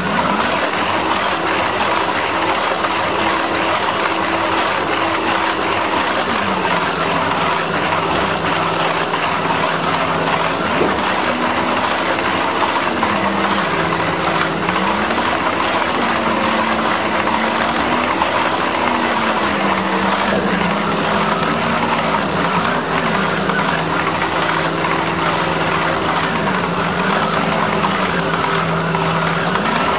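Slot cars' small electric motors running on the track over a steady hiss, their whine gliding up and down again and again as the cars speed up and slow down.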